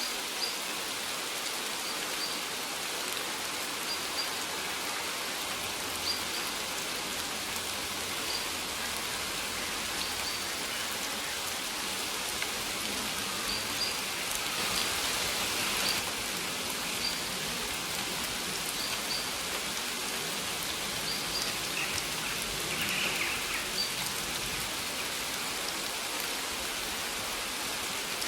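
Steady rain falling, with short high bird chirps repeating about once a second. The rain swells briefly about halfway through.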